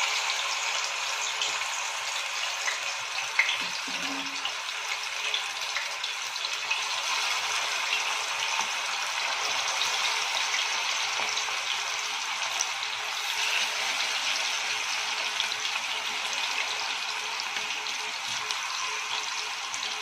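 Chicken pieces deep-frying in hot oil as they are added to the pan: a steady sizzle with small crackles throughout.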